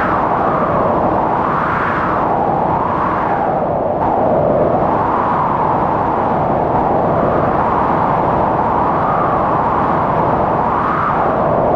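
Strong wind howling in a blizzard, with a whistling tone that rises and falls in slow swells every second or two over a steady rush.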